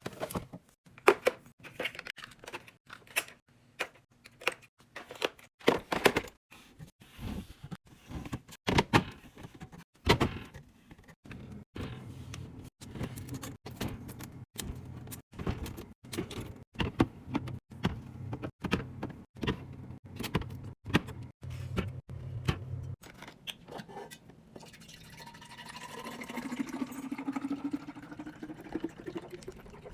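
Rapid clicks, taps and knocks of hard containers, lids and bottles being handled and set down. A steady low hum runs through the middle stretch, and near the end a tone rises steadily in pitch.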